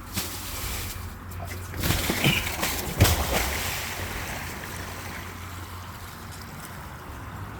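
A steady low outdoor rumble, with a cluster of rustles and knocks about two to three seconds in, the loudest a single sharp knock.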